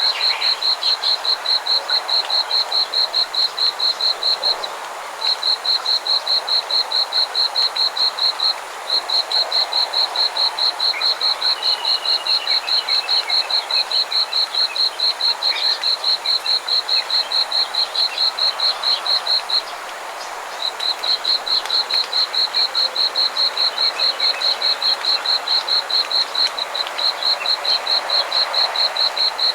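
A frog calling from a rice paddy in long runs of quick, high, evenly spaced notes, about five a second, with brief pauses between runs, over a faint steady background chorus.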